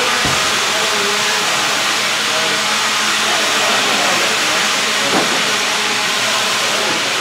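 Electric RC stadium trucks racing on a track: a steady hiss of motors and tyres with faint whines rising and falling in pitch.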